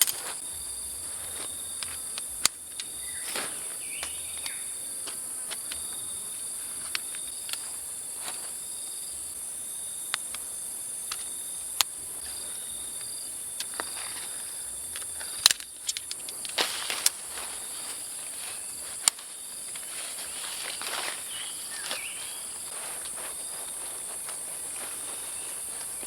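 A steady, high-pitched chorus of jungle insects, with sharp clicks and knocks now and then; the loudest come about two-thirds of the way through.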